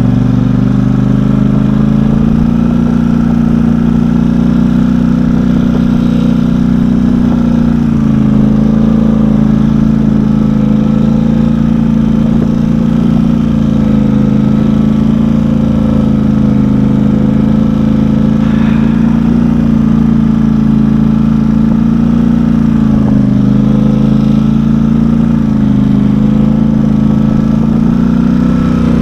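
Engine of a four-wheel-drive vehicle running steadily while being driven, its pitch holding nearly level with a few brief dips and recoveries as the throttle eases off and comes back on.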